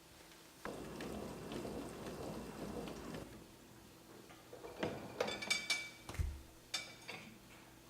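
Dishwasher spraying water for about two and a half seconds, then the clatter of the dishwasher being opened and plates handled: several sharp clinks, one with a brief ringing note, and a low thump.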